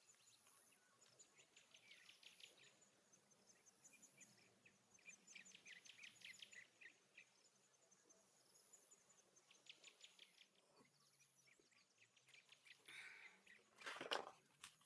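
Faint, high-pitched chirping in short rapid runs that come every few seconds, with a soft rustle near the end.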